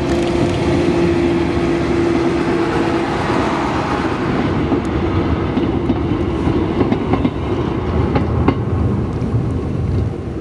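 1924 RTM motor tram M1804 running on the rails with a mail car: a steady engine rumble with a held hum that fades about three seconds in, and wheels clicking over the rail joints.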